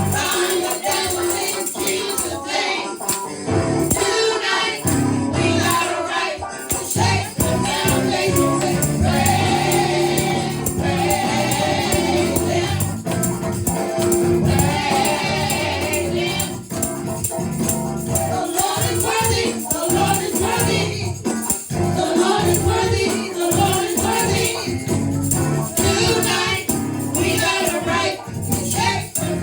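Gospel praise team singing together over the band, with a steady shaken rattle or tambourine beat.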